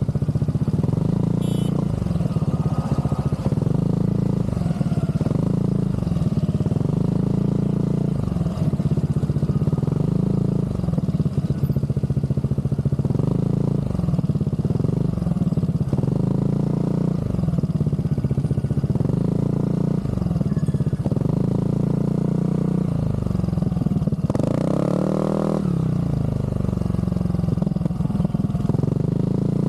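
Aprilia SR GT scooter's single-cylinder engine running through an aftermarket Zard exhaust, idling with short throttle blips every second or two. Near the end comes one longer rev that climbs and falls back to idle.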